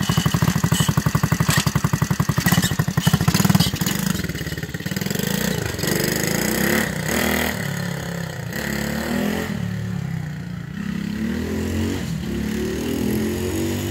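Dirt bike engine running with a rapid, even putter for the first few seconds, then revving, its pitch rising and falling repeatedly from about four seconds in.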